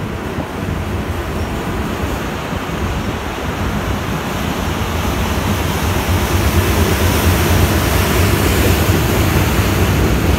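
Flatcars of a rail train loaded with long welded rail rolling past over the track: a steady rushing rumble of wheels on rail that grows louder about six seconds in as the last cars come closest.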